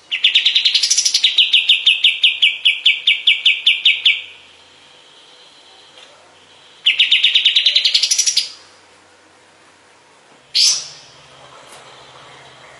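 Kapas tembak songbird singing a fast trill of evenly repeated notes, about seven a second, for about four seconds; a second, shorter trill rises in pitch partway through, and a single sharp note follows near the end.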